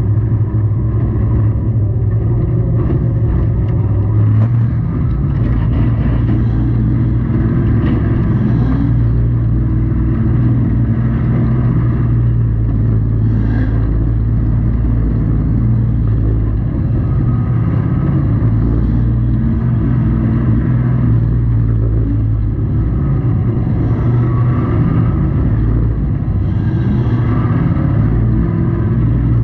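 Pro truck race engine running steadily, heard from inside the truck's cab.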